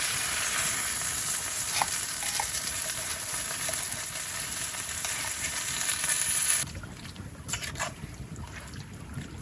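Bacon and vegetables frying in a pan, a steady sizzle that stops abruptly about six and a half seconds in. A quieter stretch with a few light ticks follows.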